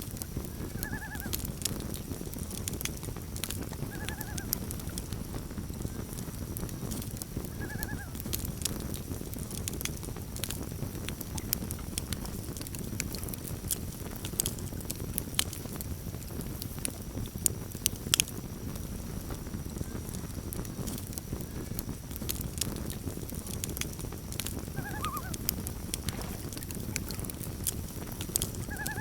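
Campfire burning with a steady low rumble and irregular crackles and pops, one louder pop about two-thirds of the way through. Short bird calls come three times in the first third and again a few times near the end.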